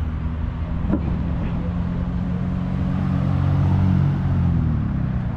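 Car engine running at low speed as it drives past, getting louder and then dropping in pitch as it goes by. A single sharp click about a second in.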